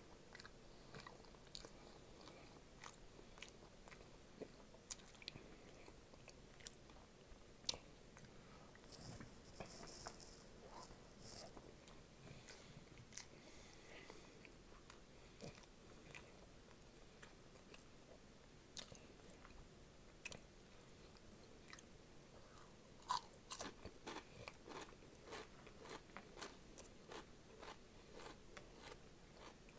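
A person chewing and biting into crunchy Flamin' Hot Cheetos and onion rings, with irregular sharp crunches spaced through the chewing.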